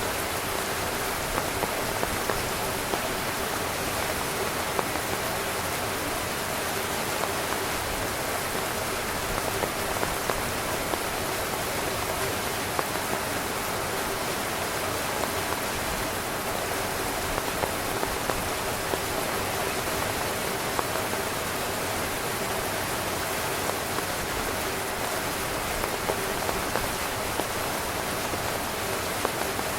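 Steady heavy rain drumming on a tent's fabric, an even dense patter with many individual drops ticking on top.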